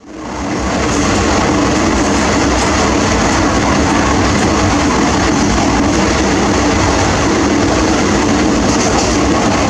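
Indian Railways express coach running at speed, heard from inside by the window: a steady rumble and rush of wheels on the track, fading in over the first second.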